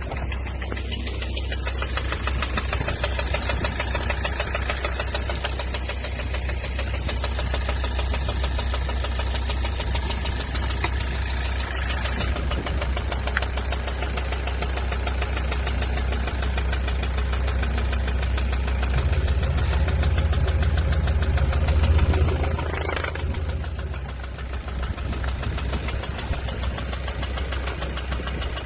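Ford Focus 1.6-litre petrol four-cylinder engine (code FYDB) running steadily at idle during an engine test. It grows louder towards about twenty-two seconds in, then drops back to idle.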